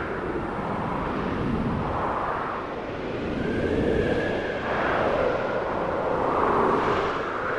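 Snowstorm wind howling, its pitch slowly rising and falling in long sweeps.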